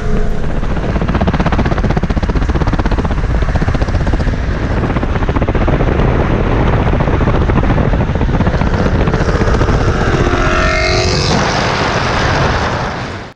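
Car engines and road noise at speed, with a heavy low rumble. About ten seconds in, an engine note rises as a car accelerates. The sound then cuts off abruptly.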